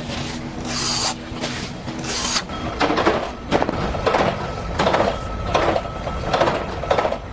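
Rasping strokes of hand filing. There are two long, hissy strokes, then from about three seconds in a regular run of shorter strokes about every 0.7 s.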